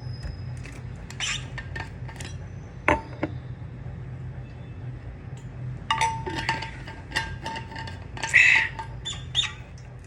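Scattered knocks and light clinks of a drinking glass or cup being handled, with a brief louder scrape or squeak about eight and a half seconds in, over a low steady hum.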